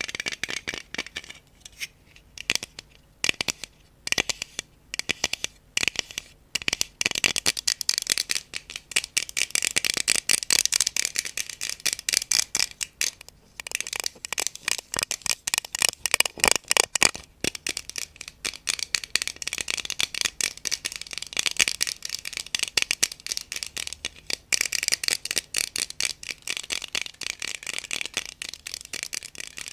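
Close-up ASMR tapping and scratching: high, crisp clicks, spaced out at first, then running together into fast, continuous tapping from about eight seconds in.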